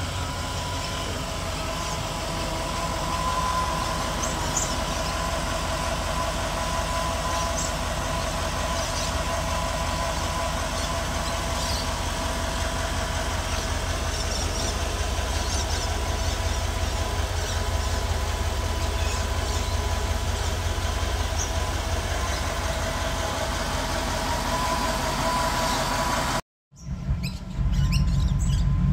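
Holden VT Commodore CSV Volanti's V8 engine idling steadily, heard over the open engine bay, with a faint steady whine on top of the idle. After a sudden cut near the end, the exhaust is heard idling at the rear, louder and lower.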